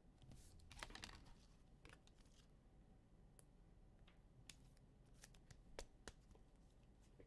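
Near silence with faint, scattered clicks and rustles of trading cards being handled and slid through the hands, a little busier about a second in.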